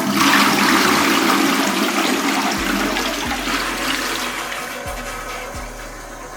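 A loud rush of flushing water that starts suddenly and slowly fades away over several seconds, with a few faint low knocks partway through.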